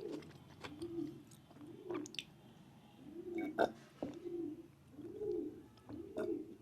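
Close-miked chewing of lamb meat in a steady rhythm, with soft moist clicks from the mouth.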